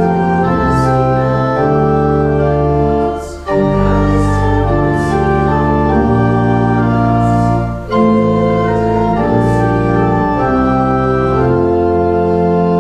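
Church organ playing slow, sustained chords that change every second or so, in phrases broken by short breaths about three and a half and eight seconds in: the organ leading a sung liturgical response.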